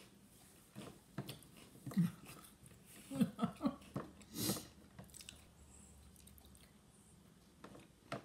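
Someone chewing a mouthful of chocolate puffed cereal, a string of short soft crunches and mouth sounds, with three short hummed murmurs about three seconds in.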